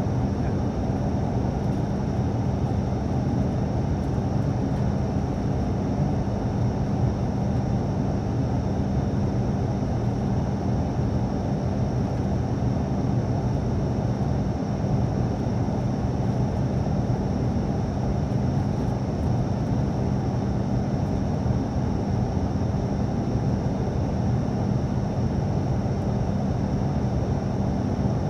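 Steady cabin drone of an ATR turboprop airliner: a dense rushing noise with a constant low hum from the engines and propellers and a faint high whine, unchanging throughout.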